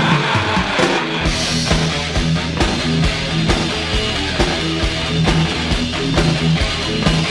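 Hard rock/heavy metal band playing: electric guitar over bass and steady drum beats.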